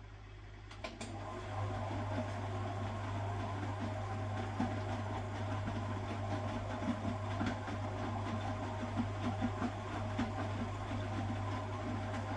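1969 Zanker VA520 washing machine running: a click about a second in, then its motor starts and runs with a steady low hum over an uneven churning sound.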